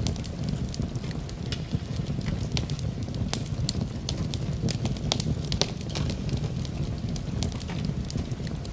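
Wood fire crackling, with frequent irregular sharp pops and snaps over a steady low rush.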